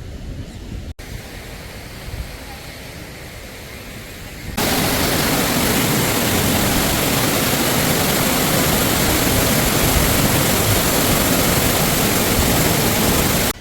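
Quiet outdoor ambience, then a loud steady rushing noise that cuts in abruptly about four and a half seconds in and stops just as abruptly near the end.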